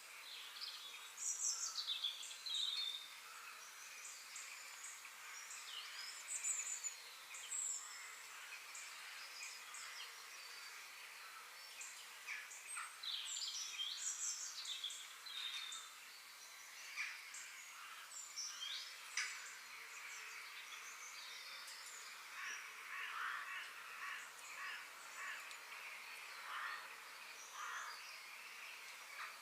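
Several birds chirping and calling over one another in short notes and falling whistles, over a steady outdoor hiss, with a louder burst of calls about two seconds in.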